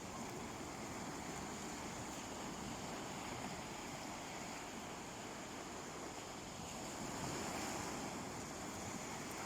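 Sea waves washing onto a beach: a steady surf hiss that swells a little about seven seconds in.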